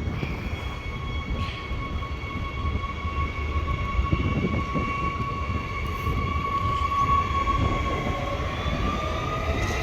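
Suburban electric train's traction motors whining with a steady tone over a low rumble, then rising in pitch near the end as the train starts to accelerate away.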